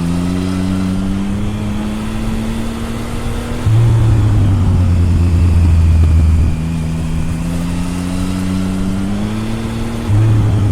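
Triumph Tiger 1050's inline three-cylinder engine heard at the exhaust, pulling with its pitch rising slowly. About four seconds in it breaks into a louder, deeper, steady stretch. It rises again and turns deeper and louder once more near the end.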